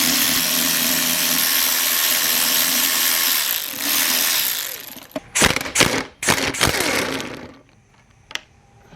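Power tool spinning out the reverse-gear bolt on a Honda Civic manual transmission case: it runs steadily for about three and a half seconds, stops for a moment, and runs again for about a second. Then come several sharp metal clinks and knocks as the parts are handled.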